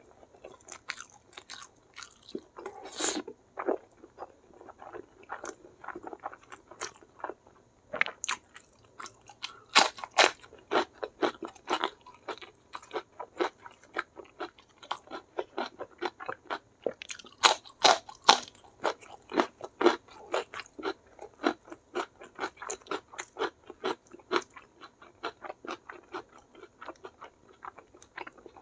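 Close-miked chewing and crunching of a mouthful of food, with irregular wet mouth clicks and louder crunchy bites, among them raw vegetables such as long beans. The loudest crunches come in clusters about three, ten and eighteen seconds in.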